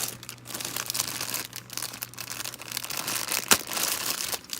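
Plastic wrapping around styrene model kit parts crinkling and rustling as it is handled, with one sharp click about three and a half seconds in.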